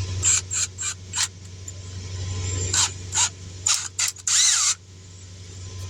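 Tire-repair hand tools being handled against the tire: a string of sharp clicks and knocks, then a brief squeaky scrape about four seconds in, over a steady low hum.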